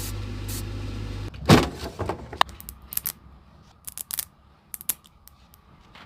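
A small electric motor runs with a steady hum and cuts off about a second in. A loud knock follows, then a scatter of light clicks and taps, like small tools and parts being handled on a workbench.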